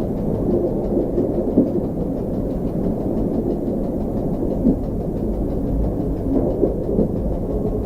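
Steady low rumble of an SŽ series 813 diesel multiple unit running along the line, heard from the driver's cab, with a few short knocks from the wheels and running gear scattered through it.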